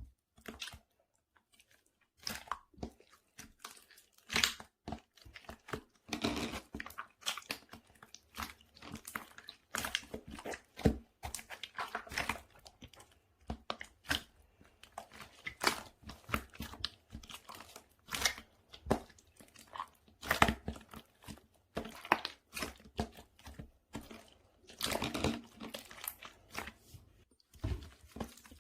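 Croissant slime being squeezed and worked by hand, giving irregular crunchy crackling and popping that starts about two seconds in.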